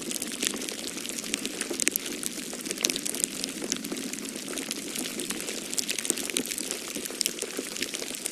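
Wood fire crackling in a fireplace: irregular sharp pops and snaps over a steady rushing noise.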